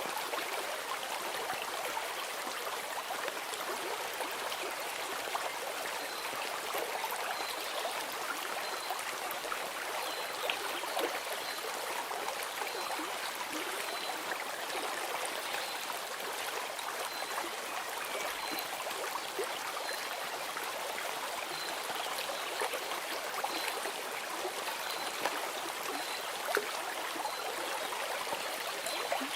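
Steady rush and trickle of a flowing stream, with a faint high chirp repeating every second or so from about six seconds in.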